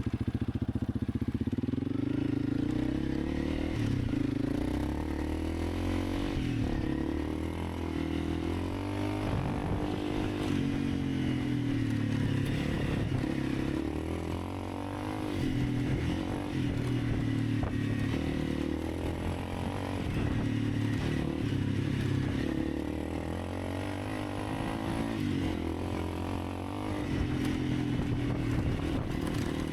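Honda CRF300 Rally's single-cylinder engine running under way, its pitch rising and falling with throttle and gear changes.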